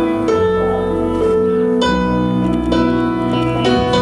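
Live rock band playing an instrumental passage between sung lines, with sustained keyboard chords changing every second or so over bass.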